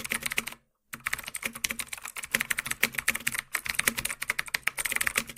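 Rapid, irregular clicking in the manner of keyboard typing, broken by a brief silence about half a second in.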